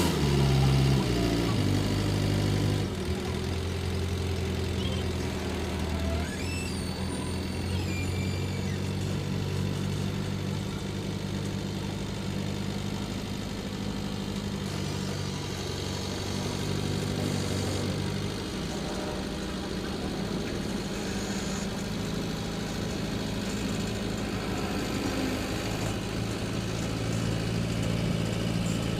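Leyland recovery truck's diesel engine running at a steady low speed, settling down from a rev over the first couple of seconds.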